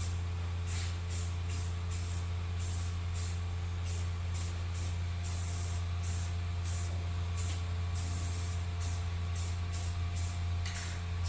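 Aerosol spray can of Rust-Oleum Rust Reformer hissing in repeated bursts, some short and some longer, as the paint is sprayed on in a stop-start way. A steady low hum runs underneath.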